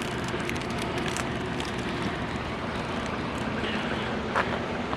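Steady outdoor background rumble with a faint low hum, broken by a few light clicks and taps.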